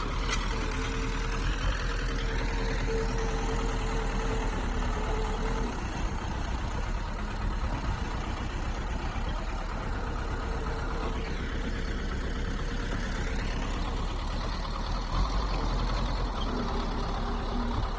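Heavy diesel engine of a bulldozer running steadily at work, with a steady whine for the first several seconds that returns briefly near the end.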